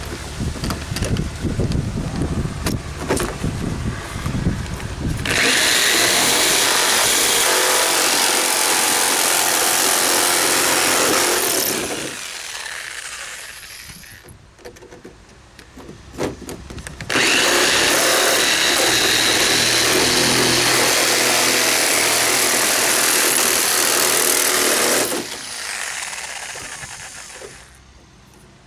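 Handheld power tool cutting the lockset opening in a cargo trailer door, starting from the drilled pilot holes. After a few seconds of rough, uneven cutting it runs steadily at full speed twice, for about seven and eight seconds, each run trailing off as it stops.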